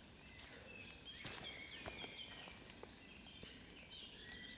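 Faint birdsong in woodland: a songbird repeats short phrases of stepped, falling notes. A few light ticks sound in between.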